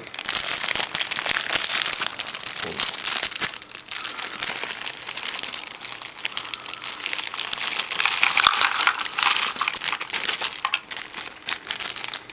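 Crinkling of the bag holding the jigsaw puzzle pieces as it is handled and opened: a steady, dense crackle.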